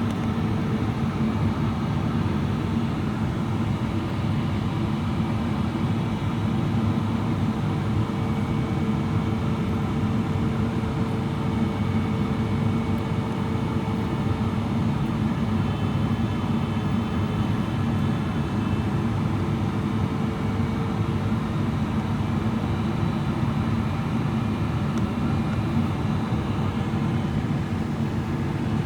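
Steady roar of a Boeing 777-300ER on approach, heard inside the cabin: airflow over the fuselage and the GE90 engines at approach power, with the slats extended. A faint steady hum runs under the roar.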